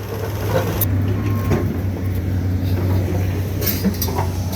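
Heavy truck's engine running steadily with a low hum while the trailer is being loaded with stone, with a few sharp knocks over it.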